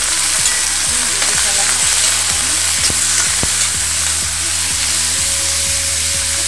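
Raw pork pieces sizzling loudly in hot oil in a wok with garlic and onion as they are stirred: a steady frying hiss with many small scattered pops.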